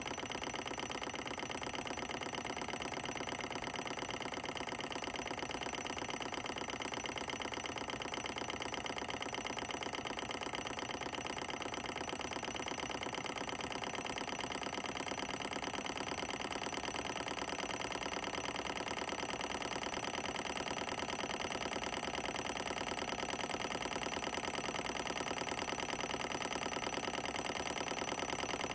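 Solar Engines Model 1 Stirling cycle engine running steadily with a fast, even mechanical rhythm.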